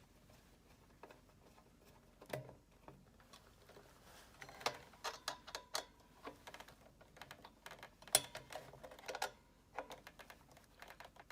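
A screwdriver tightening the screws on a halogen convection oven's lid, making irregular small clicks and taps, with busier clusters around the middle and about eight to nine seconds in.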